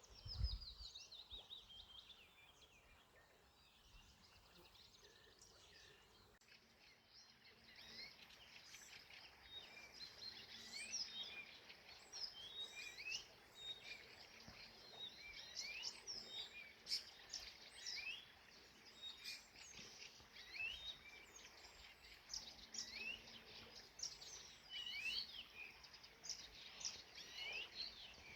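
Wild songbirds singing: a falling trill near the start, then from about seven seconds in a dense chorus of many short, high chirps and whistles from several birds.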